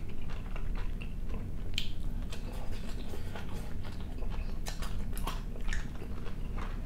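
A person chewing food close to the microphone, with soft wet mouth clicks and smacks coming at irregular moments.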